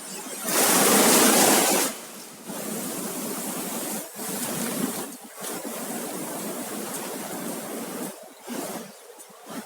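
Sea surf on a beach: a loud rush of a breaking wave about half a second in, lasting over a second, then the steady wash of water that fades near the end.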